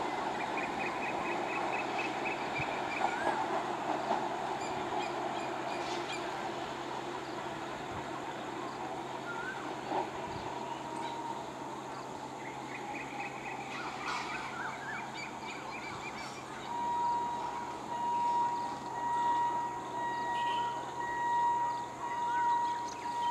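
Conventional EMU electric local train approaching, a steady low rumble from its running gear and motors, with birds chirping and whistling over it. About two-thirds of the way in a steady high tone comes in, swelling and fading about once a second.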